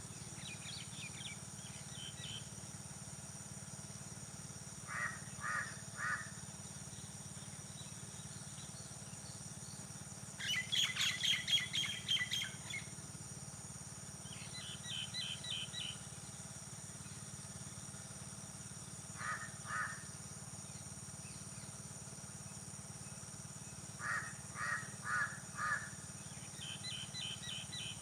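Birds calling in open fields at early morning: short groups of two to four repeated calls, with a busier flurry of twittering about ten seconds in. A steady low hum and a thin, steady high whine run underneath.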